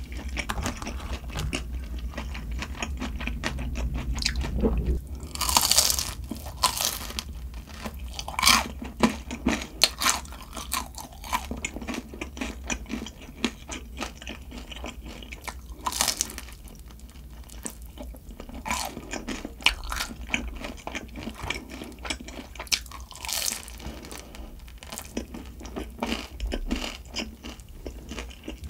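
A person chewing and crunching food close to the microphone: a steady run of small wet mouth clicks, with a few louder crunchy bites now and then.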